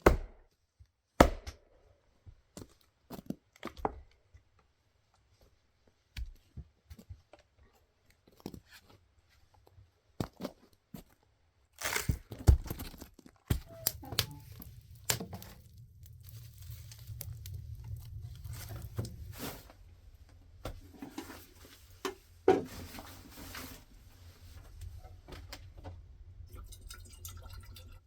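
An axe splitting a log: two sharp knocks at the start, then scattered lighter knocks. From about halfway, crinkling and crunching as kindling is handled, over a steady low rumble.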